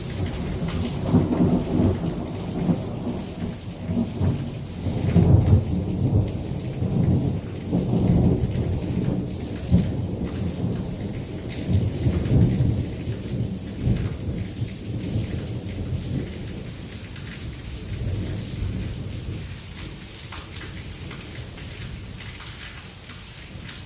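Long rolling thunder rumbling over steady heavy rain. The rumble swells to its loudest about five seconds in and dies away over the second half, leaving the hiss of the downpour.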